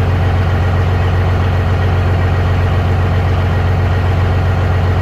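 Peterbilt big-rig diesel engine running steadily at low revs, an even low drone, while the engine is still cold and being warmed up.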